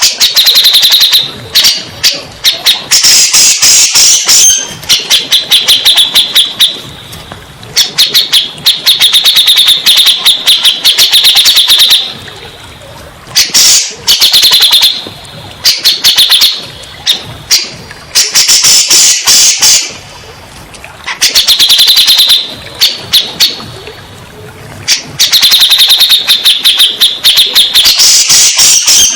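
Black-throated laughingthrush (cak jenggot) song: loud bursts of rapid chattering notes, each a few seconds long, separated by short pauses.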